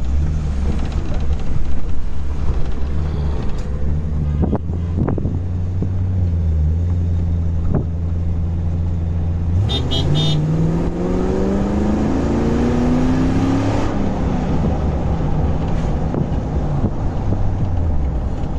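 Corvette LS3 6.2-litre V8 swapped into a Land Rover Defender, heard from inside the cabin on the move: a steady low drone at light throttle, then about ten seconds in it revs up under acceleration, rising in pitch for about four seconds before easing off.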